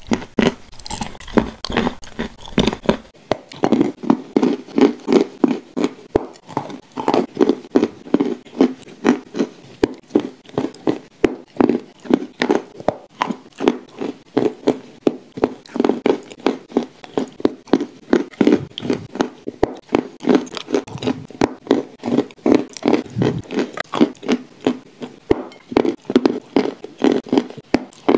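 Close-miked chewing of shortbread cookie spread with clay paste, an even rhythm of about two chews a second. The first few seconds have a crunchier bite.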